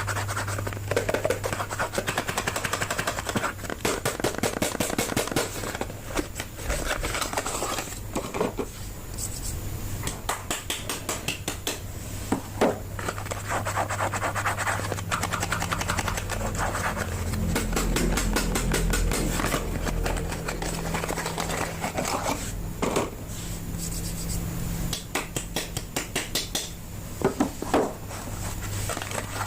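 Soap bars being unwrapped by hand: packaging rustling and scratching, with runs of quick sharp clicks and taps. A steady low hum sits underneath.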